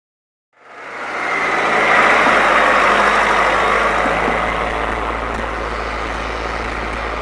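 Loud vehicle engine idling. It fades in about half a second in, then runs steadily with a low rumble under a rough hiss.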